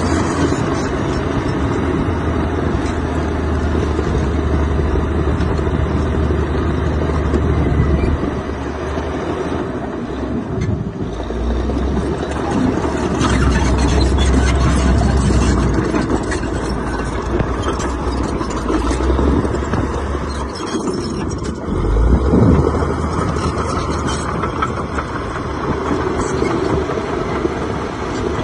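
Heavy earthmoving machine's diesel engine running under load, its low note swelling and easing several times, with short knocks and rattles from the working machinery.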